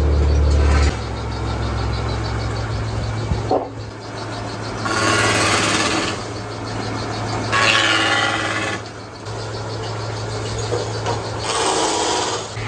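Sawmill machinery running with a steady hum and fast even ticking, and three louder passes of a saw through wood with a rising whine, about five, seven and a half and eleven and a half seconds in.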